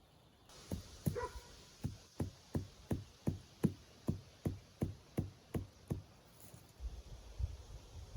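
A steady run of about fifteen hammering blows, close to three a second, each a sharp knock, stopping about two seconds before the end.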